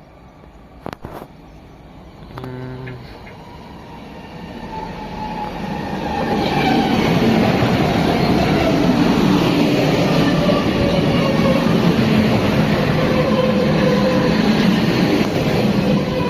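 A train approaching and passing close by: the rumble and wheel noise build from about four seconds in and stay loud for the last ten seconds, with a whine that falls in pitch as it goes by. A short low tone sounds about two and a half seconds in.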